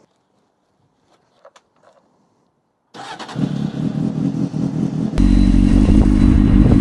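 Motorcycle engine starting about three seconds in and running, getting louder a couple of seconds later, after a few faint clicks.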